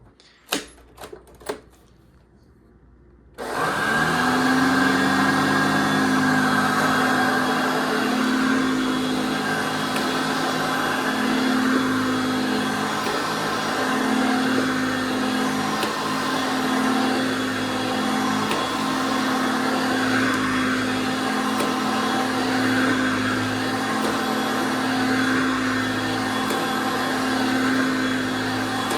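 A few sharp clicks, then a 1978 Hoover Concept One U3101 upright vacuum cleaner switches on: its motor spins up in pitch and settles into a steady running hum.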